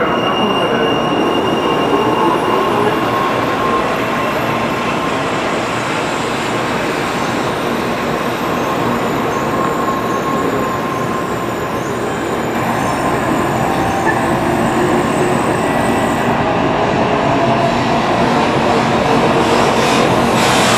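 Tokaido Shinkansen bullet train moving along a station platform: a steady rush of wheels and running gear with a thin whine through the first half, growing louder over the last few seconds.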